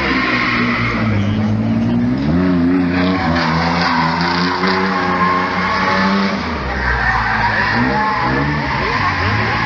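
Mercedes 190E's 3.6-litre AMG M104 straight-six revving hard under drift, its pitch rising and falling several times, with tyres squealing and skidding.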